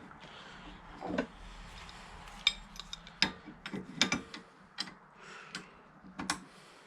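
Irregular metallic clicks and knocks of hand tools and steel parts being handled while a Bobcat quick-attach pin mechanism is bolted back together.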